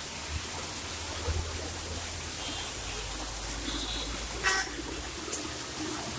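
Rainy city street: a steady hiss of rain over the low rumble of traffic. A vehicle horn toots briefly about four and a half seconds in, with a couple of short high beeps before it.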